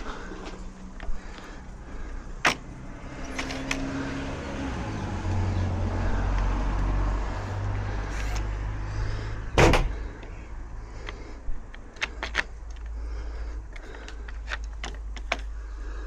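Scattered metallic clicks and knocks from UPVC door lock hardware being worked by hand, with one loud knock about ten seconds in, over a steady low rumble that swells in the middle.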